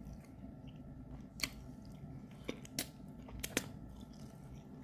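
A person chewing a mouthful of chicken stew close to the microphone, with several short, sharp mouth clicks and smacks.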